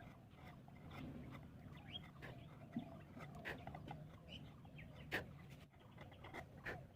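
Irregular sharp taps and knocks of hand tools working wood, about one a second or less, with faint short chirps like birds behind them.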